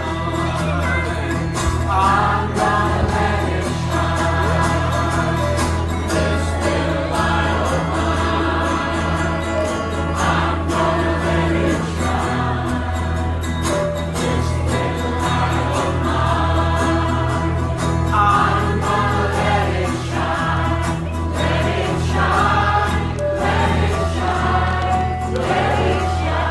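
A group of voices singing a song together, choir-style, over instrumental accompaniment with a steady sustained bass.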